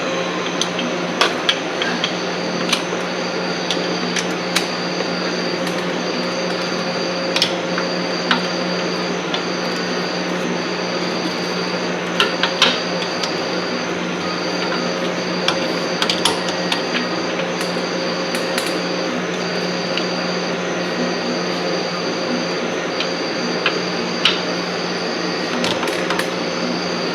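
Scattered metallic clinks and knocks of hand tools working on a car's underside, over a steady hum.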